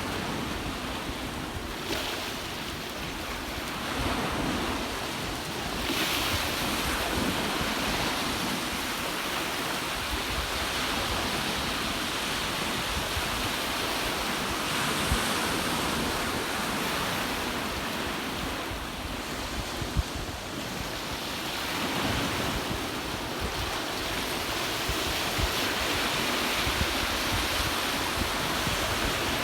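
Ocean waves washing onto the beach in a continuous rush that swells and eases every few seconds, with wind buffeting the microphone.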